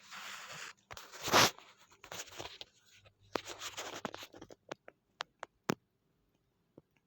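Packaging and a small model aircraft being handled by hand: rustling and scraping with one louder scrape about a second and a half in, then four sharp clicks or taps in quick succession.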